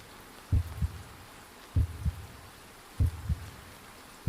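Slow heartbeat sound effect: pairs of low thumps (lub-dub) repeating about every second and a quarter, three full beats.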